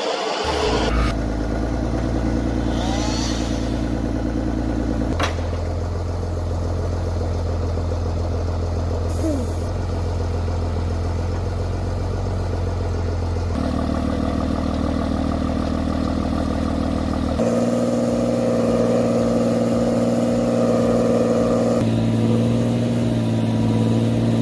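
Heavy vehicle engines running steadily, the sound switching abruptly every few seconds to a different engine note.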